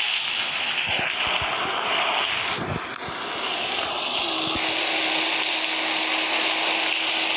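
Steady hiss of heavy rain, with a few faint clicks. A steady low tone joins about four seconds in.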